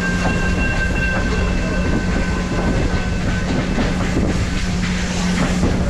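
Passenger train running along the track, heard from an open railroad car: a steady rumble and clatter of wheels on rails. A thin, high whine from the wheels sounds over the first few seconds.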